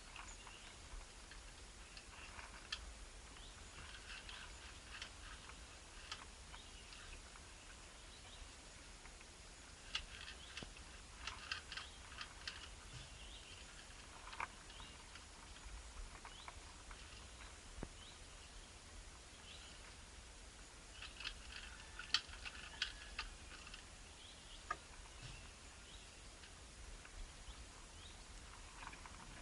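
Small birds chirping faintly in short clusters of quick, clicky calls, three main bouts separated by lulls.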